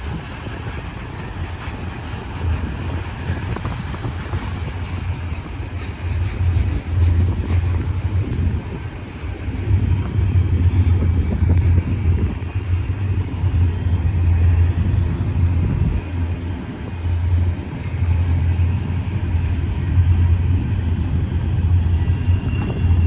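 Intermodal stack container freight train rolling past: a continuous low rumble that swells and eases.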